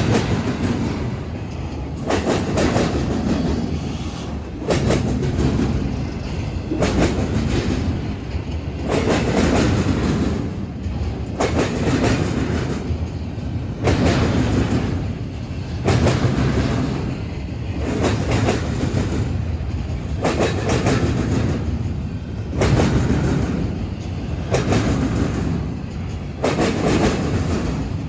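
BNSF freight train cars rolling over a railroad diamond crossing, car after car. The wheels bang across the crossing in groups of clacks roughly every two seconds over a continuous rumble.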